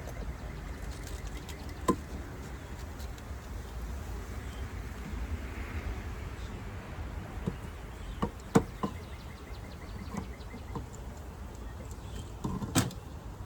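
A few sharp knocks and clicks from handling a package-bee box and its syrup can, over a low steady rumble of wind on the microphone.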